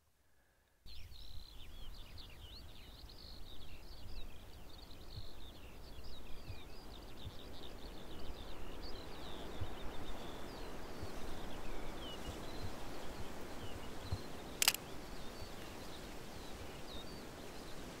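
Small birds chirping and twittering in quick high notes over a low, steady outdoor rumble; the song thins out after about twelve seconds. A single sharp click sounds about three-quarters of the way through.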